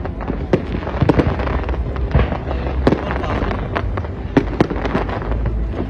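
Fireworks going off: a fast, irregular string of sharp bangs over a continuous crackling.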